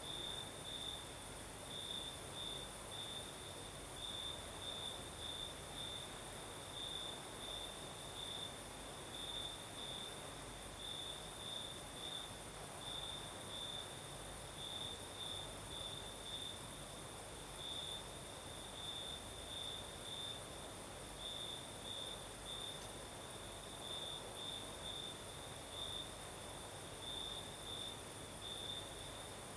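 Crickets singing at night: one chirps in short, irregular pulses at a fairly high pitch, over a steady, even higher continuous insect trill and a soft hiss of night breeze.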